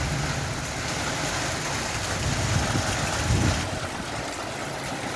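Steady rain falling, an even hiss with a low rumble underneath; the hiss eases slightly about three and a half seconds in.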